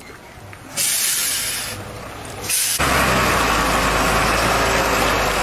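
Truck sounds: a loud hiss starting about a second in, a short second hiss around the middle, then a steady engine and road rumble.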